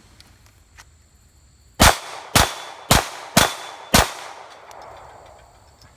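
Five pistol shots from a Glock 23 firing 9mm through a Lone Wolf .40-to-9mm conversion barrel, about half a second apart, each followed by an echo.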